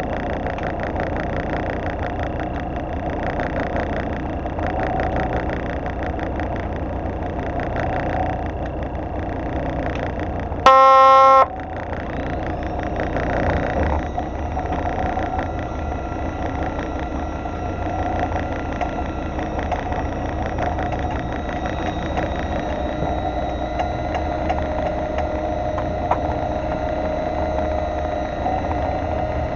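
Fishing boat's engine running steadily, with one short, loud horn blast about eleven seconds in.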